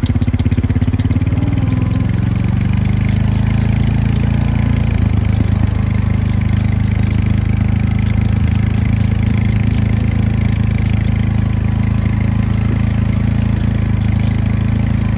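Small vehicle engine running steadily at low speed, its note settling slightly lower about a second in, with faint light rattles over it.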